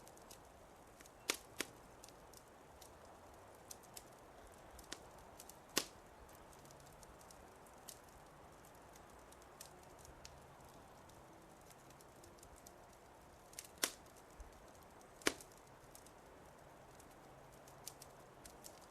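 Wood fire crackling: scattered sharp pops and snaps over a faint steady hiss, with a few much louder snaps spread through.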